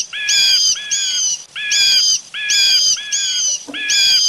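Eagle calling: a rapid run of short, high-pitched cries, about two a second.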